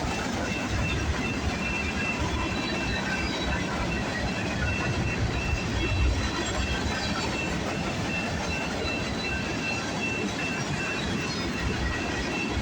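Freight cars of a long Union Pacific manifest train rolling past: a steady rumble with wheels clicking over the rail joints. A faint high tone repeats evenly throughout.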